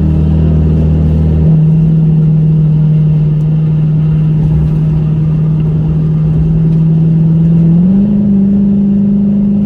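Car engine running at steady revs with a steady drone. A deep low rumble drops away about a second and a half in, and the engine note rises slightly near the end.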